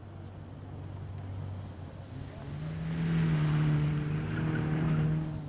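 Car engine running, then revving higher and louder about two and a half seconds in before easing off near the end.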